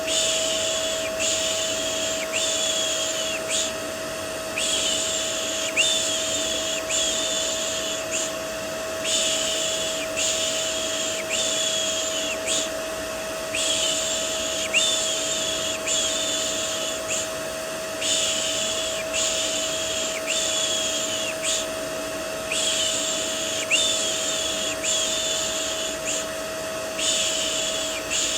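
Vacuum cleaner running steadily with a constant motor whine, overlaid with a repeated human 'shh' shushing in rhythmic runs of about four, with short pauses between runs.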